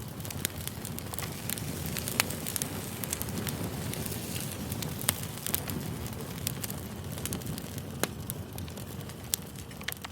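Campfire crackling: a steady low rumble of burning wood with frequent sharp pops and snaps scattered throughout.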